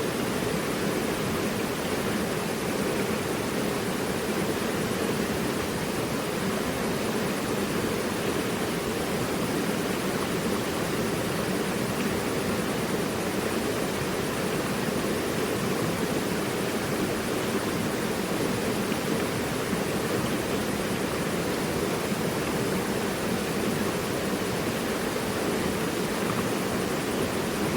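Mountain river rushing steadily over rocks, an even unbroken roar of flowing water.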